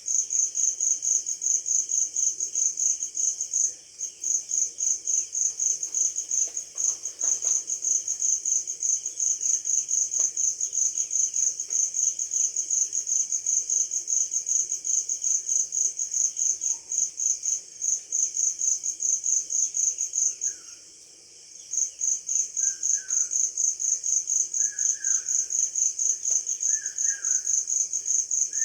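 Cricket chirping in a fast, even pulse, breaking off briefly twice. From about two-thirds of the way through, a bird adds short chirps about once a second.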